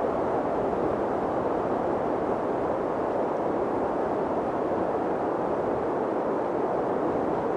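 Mountain wind blowing steadily: an even, dense rushing noise, deep and muffled rather than hissy, without gusts or whistling.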